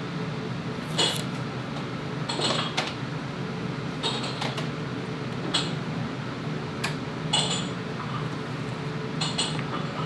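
Repeated clinks of a metal utensil against a pot or pan, every second or two, over a steady low hum.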